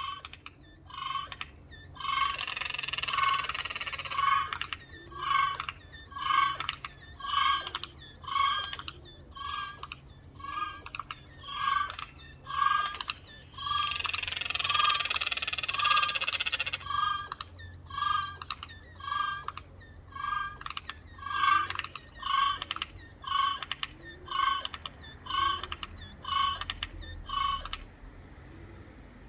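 Eurasian jays giving a steady series of short, strange calls, about one a second, twice broken by a longer, harsher noisy stretch; the calling stops near the end.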